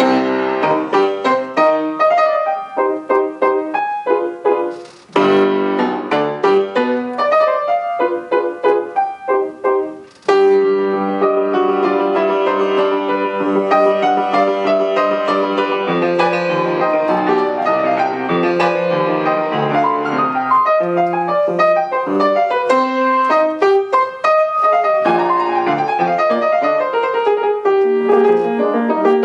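Solo piano playing classical music, starting after a pause. Short detached chords and phrases are broken by two brief rests, and from about ten seconds in the playing runs on, fuller and unbroken.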